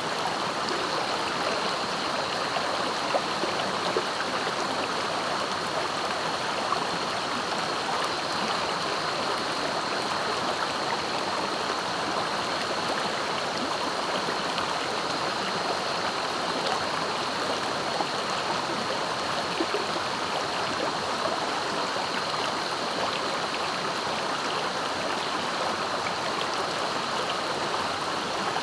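Swiftly flowing river running steadily, an even rush of water with small splashy ripples. A thin, steady high tone sits above it throughout.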